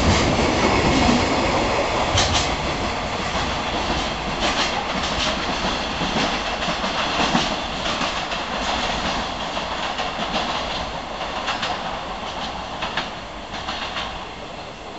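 Container freight train's wagons rolling along the track, wheels clacking over rail joints at irregular intervals, growing steadily fainter as the train pulls away.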